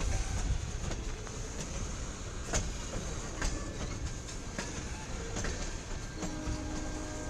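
CSX local freight train rolling by, its wheels clicking over the rail joints, with a few sharp clicks. Near the end a distant locomotive horn starts to sound.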